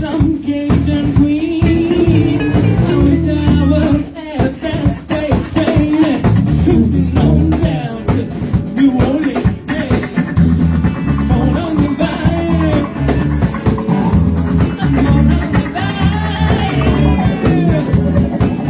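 Live band playing at a bar jam: electric guitar, bass and drum kit, with singing.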